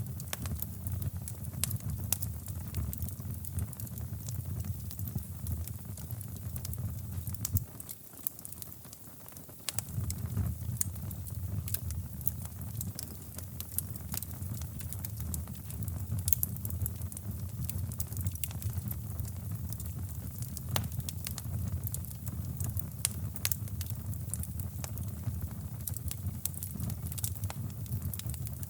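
Wood fire crackling in a fireplace, with sharp pops and snaps scattered irregularly, over a steady deep rushing brown noise. The deep noise drops out for about two seconds roughly eight seconds in while the crackling carries on.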